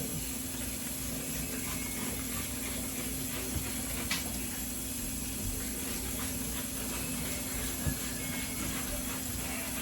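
Steady background hiss with a constant low hum, broken by a few faint light clicks or knocks.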